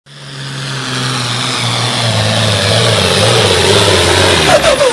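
Farm pulling tractor's engine running hard under load, swelling up over the first second and then holding, its pitch sagging slowly as it lugs down. A few falling tones sound near the end.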